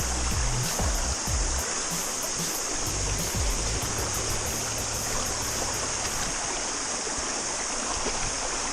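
Small stream running over rocks under a steady, high-pitched chorus of cicadas, with a few low rumbles in the first few seconds.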